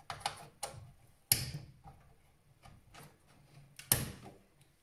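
DDR2 memory modules being pressed into motherboard slots: two sharp clicks about two and a half seconds apart as the slot latches snap shut, with lighter clicks and handling between them.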